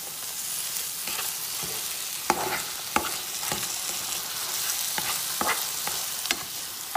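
Onion-tomato masala sizzling in a non-stick pan as yogurt is stirred in with a slotted spatula. A steady frying hiss runs throughout, with the spatula clicking and scraping against the pan in irregular strokes.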